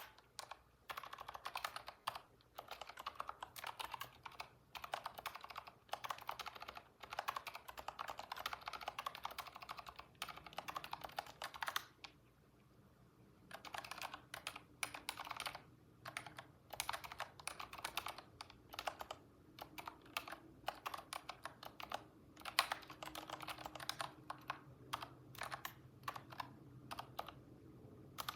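Typing on a computer keyboard: quick runs of keystrokes broken by short pauses, the longest of about a second and a half near the middle.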